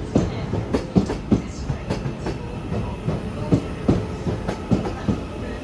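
Train running on the track, its wheels clattering over rail joints: a string of uneven clacks over a steady low rumble.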